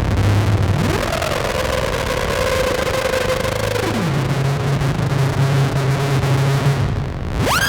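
Novation Circuit synthesizer playing a noisy drone patch from the Howl preset pack: a droning tone over a bed of noise glides up about a second in and holds, slides down to a low steady note about four seconds in, then sweeps sharply upward near the end.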